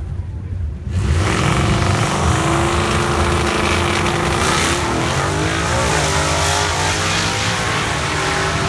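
Loud V8 drag-racing engines at the starting line, among them a 1989 Mustang LX's 5.0 V8 with long-tube headers, coming in suddenly about a second in and revving hard. Around the middle one car launches and pulls away, its engine rising in pitch.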